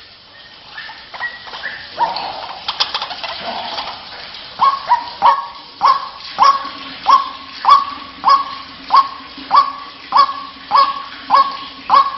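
White-breasted waterhen calling. After a few scattered notes, from about four seconds in it repeats one sharp call evenly, about every 0.6 seconds.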